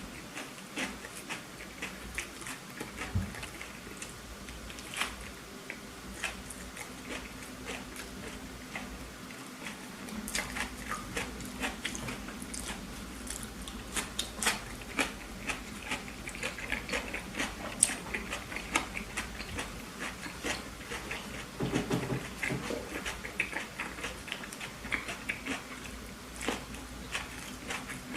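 Close-up eating sounds from someone chewing burger: irregular wet crunches and mouth clicks, with a short lower swallowing or gulping sound about 22 seconds in.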